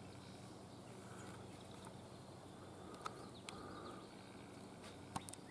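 Faint outdoor ambience with a low steady hum, a few distant bird chirps and a few small clicks.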